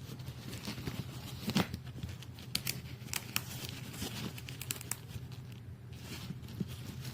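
Rustling and crinkling with scattered sharp clicks, the loudest about one and a half seconds in, over a steady low hum.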